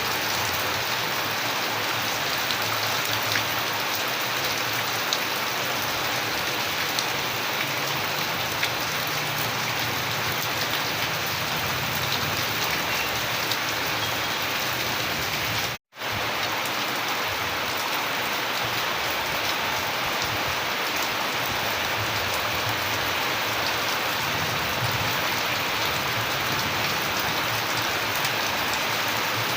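Steady rain falling, a dense even hiss with scattered ticks of individual drops. About halfway through the sound cuts out for a split second, then resumes unchanged.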